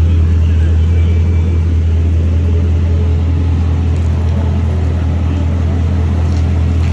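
Dodge Charger's 5.7 HEMI V8 running through its new aftermarket exhaust: a steady, deep exhaust drone with no change in pitch.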